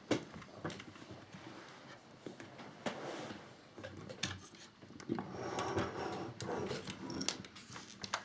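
Handling noises of a scale model motorcycle being turned and worked on: scattered light clicks and knocks with soft rubbing of the parts in between.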